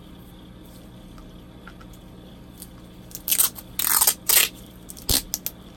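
Sellotape being peeled off plastic model parts to lift old decals: after a few quiet seconds, several short loud tearing rips, then a single sharp tap.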